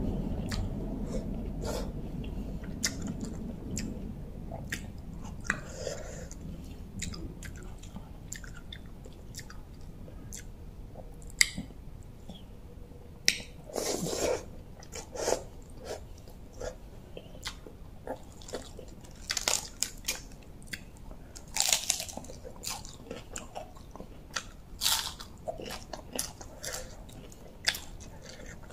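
Close-up mouth sounds of a person eating rice-noodle salad with her fingers: steady wet chewing clicks, with several louder bites and mouthfuls in the second half.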